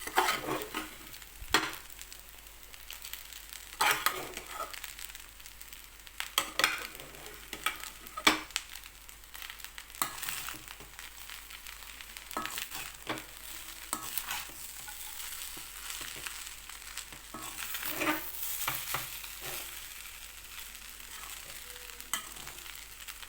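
A spoon stirring and scraping cooked rice in a pan on the stove, with irregular scrapes and knocks against the pan over a faint sizzle.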